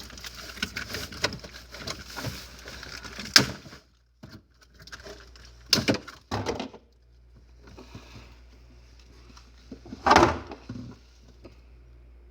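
Rustling, clicks and bumps inside a packed refrigerator as someone crammed in it shifts about, with a sharp knock about three seconds in. Then come two knocks, a steady low hum, and a louder thump about ten seconds in.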